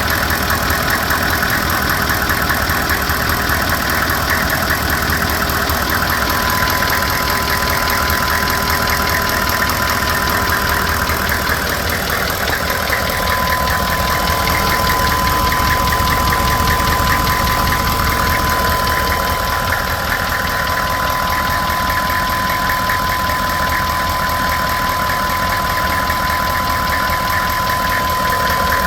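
Vehicle engine running with a fast, steady knocking, the knocking noise the owner is recording as a fault. A steady high whine comes in about six seconds in and holds.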